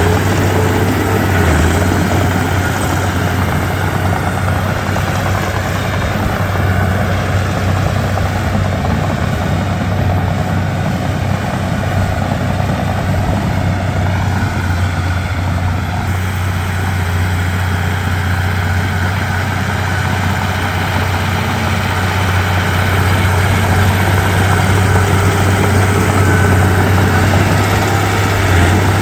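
Komatsu D31P bulldozer's diesel engine running steadily with a deep drone, getting a little louder in the last few seconds.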